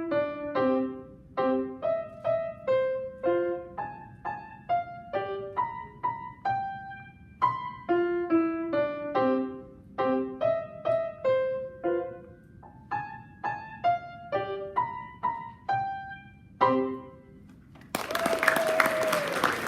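Solo piano playing short, detached notes in quick phrases, ending on a last note about 17 seconds in; applause breaks out about a second later.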